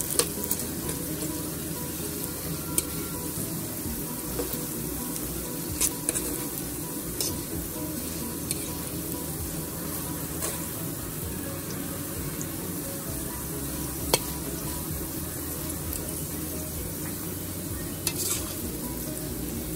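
Fresh-cut potato fries frying in hot oil, a steady sizzle, with a few sharp clicks of metal tongs against the pan as the fries are turned.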